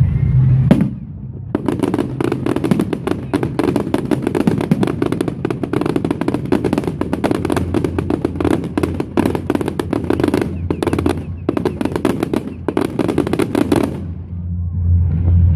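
Fireworks at a display going off in a long, dense string of rapid crackling bangs, starting about a second and a half in and stopping abruptly near the end.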